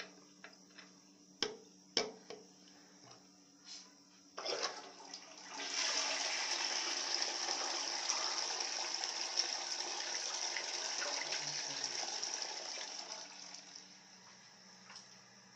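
A few light clicks and knocks, then a dual-flush toilet flushing: water rushes for about eight seconds and then tapers off.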